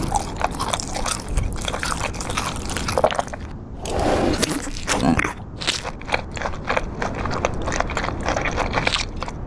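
Dense, irregular crunching and crackling: many sharp clicks close together, with a brief noisier rustle about four seconds in.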